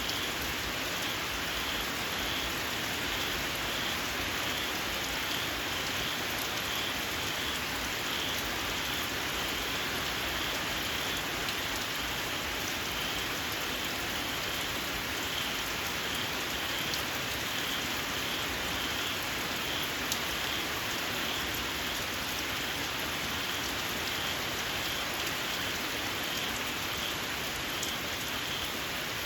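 Steady rain falling, with small paddy frogs calling through it in a shrill, evenly repeated pulsing chorus.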